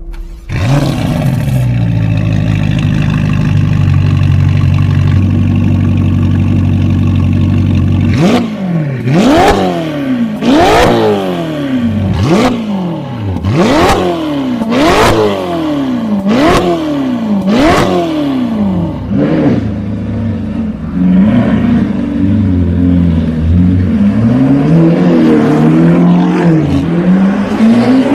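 Mansory-tuned Ferrari Roma's twin-turbo V8 idling steadily, then revved hard about nine times in quick blips roughly one and a half seconds apart, each rev rising sharply and falling away. Near the end the engine runs with a lower note that rises and falls more slowly.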